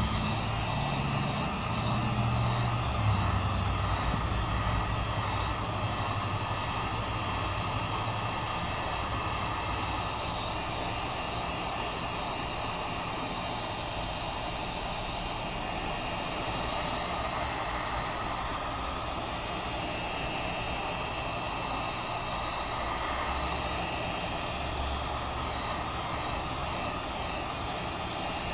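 Heat gun running steadily, its fan blowing hot air in an even whir, heating the phone's glass to soften the adhesive under it.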